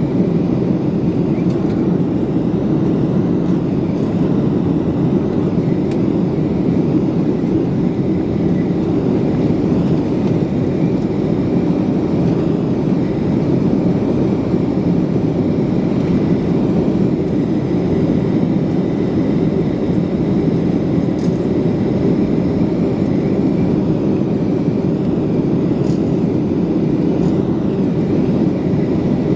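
Steady engine and airflow noise inside the cabin of a Gol Boeing 737 airliner in flight during the departure, a constant low rumble with no change in level.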